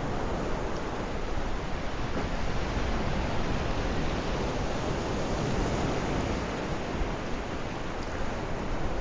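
Ocean surf washing on the shore, an even, continuous rush of noise without distinct separate crashes.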